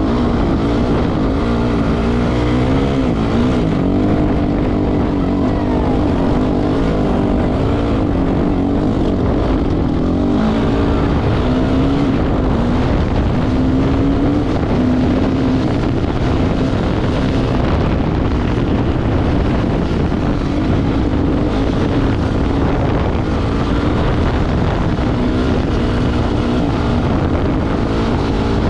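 Off-road motorcycle engine running steadily, its pitch wavering slightly, with a constant low rumble of wind noise on the microphone.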